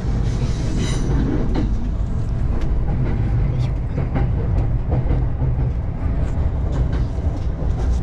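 JR commuter train running, heard inside the carriage: a steady low rumble with faint clicks of the wheels over the track. A few brief rustles of a shawl being handled close by.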